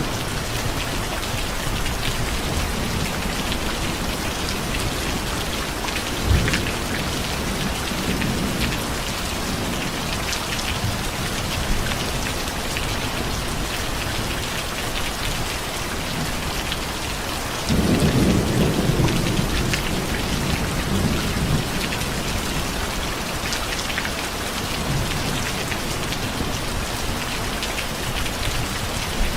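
Steady heavy rain falling, with thunder: a short crack about six seconds in, and a sudden deeper rumble a little past the middle that rolls on for several seconds.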